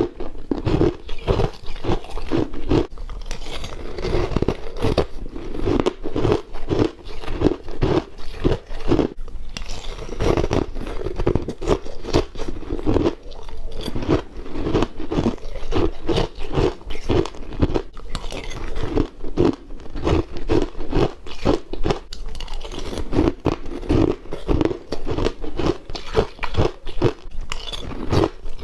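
A person biting and chewing hard, crunchy white freezer frost mixed with passion fruit: a continuous run of crunches, several a second.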